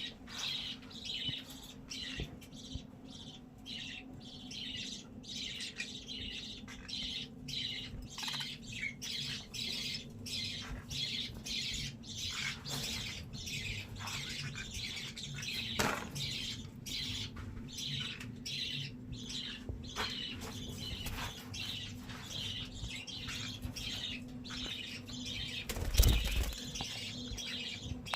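A flock of budgerigars chattering and chirping continuously, with frequent wing flutters and a loud thump near the end. A steady low hum runs underneath.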